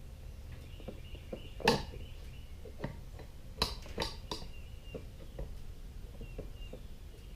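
Metal parts of a Briggs and Stratton riding-mower electric starter being handled and fitted together: a few sharp clicks and knocks, the loudest about a second and a half in and three more close together near the middle, with light ticks in between.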